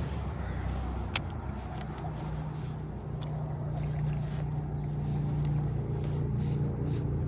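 A distant engine drones steadily, its pitch stepping up about a second in, with a single sharp click about a second in.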